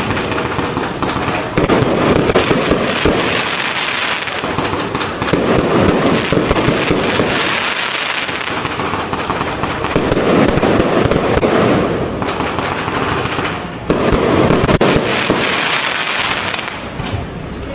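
Fireworks going off in a dense, continuous crackle of rapid bangs, swelling louder every few seconds.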